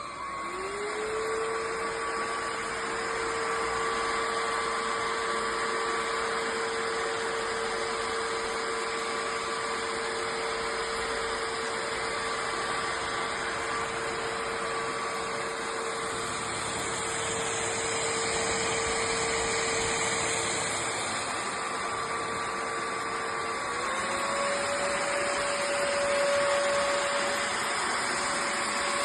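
Vexilar V9PRO cordless stick vacuum switched on. Its motor spins up to a steady whine over a rush of air. About 24 seconds in, the whine steps up in pitch as the motor speeds up.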